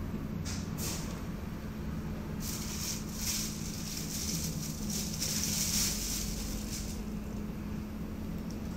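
Interior sound of a BKM-213 articulated trolleybus under way: a steady low hum from its traction equipment. A rushing hiss swells in about two seconds in and fades near the end.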